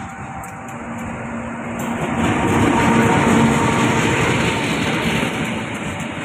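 A train passing close by with a heavy rumble and wheel noise. It swells to its loudest about three seconds in, then eases off slightly.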